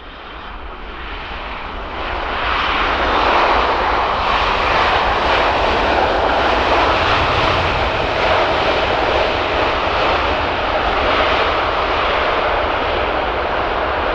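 Ryanair Boeing 737 jet engines spooling up for takeoff on the runway, growing louder over the first two seconds and then running loud and steady at takeoff power.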